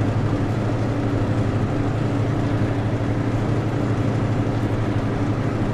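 A vehicle's engine and road noise making a steady low drone while driving, unchanging throughout.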